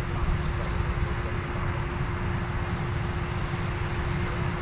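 Combine harvester running steadily while harvesting corn: a constant rumble and hum with a steady whine held on one pitch.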